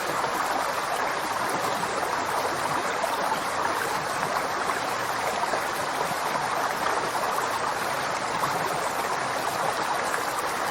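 River water flowing steadily over rocks, a constant rushing noise strongest in the middle range, without breaks.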